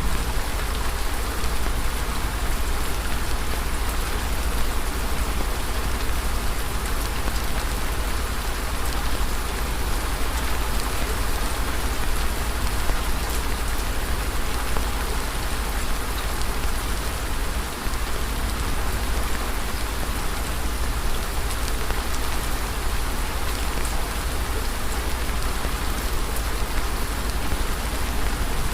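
Steady nature-ambience bed of dense, fine crackling over an even hiss and a constant low rumble, with no pauses or changes.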